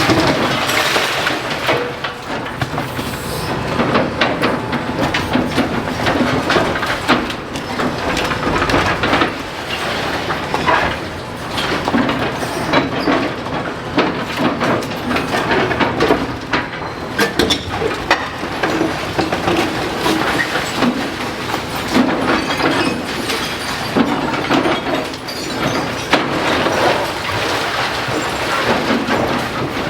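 Demolition excavator breaking up a brick building: a steady stream of crunching, knocking and clattering as masonry breaks and rubble falls.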